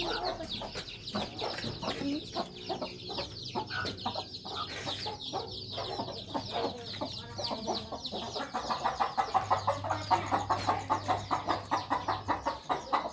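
Newly hatched kampung chicks peeping non-stop in short, high, falling notes. About two-thirds of the way in, a lower, rapid, even clucking joins them, about five pulses a second.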